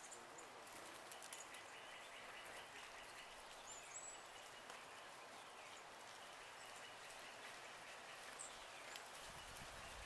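Quiet outdoor ambience with two brief, high-pitched bird chirps, one about four seconds in and another a little past eight seconds.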